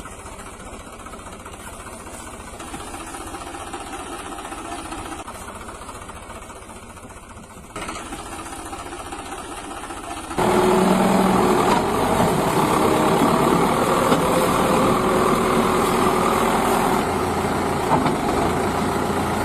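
A vehicle engine running steadily, stepping up suddenly in loudness about eight seconds in and again about ten seconds in.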